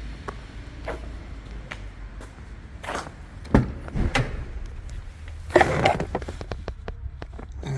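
Clicks, knocks and a rustling scrape of things being moved about under a car seat. The loudest part is the scrape, about five and a half seconds in.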